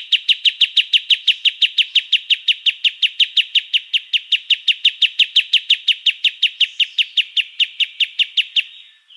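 A songbird's rapid 'tembakan' call, an even train of short downward-slurred notes at about six or seven a second, stopping abruptly near the end.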